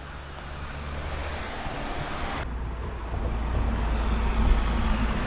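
Road traffic: cars driving past on the street, the noise growing louder over the last couple of seconds as a vehicle comes closer.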